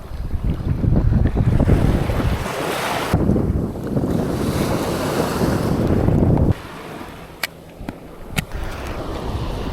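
Wind buffeting the microphone over waves breaking on a sandy beach. The wind rumble drops away abruptly about two-thirds of the way through, leaving the surf, and two short sharp clicks follow a second apart.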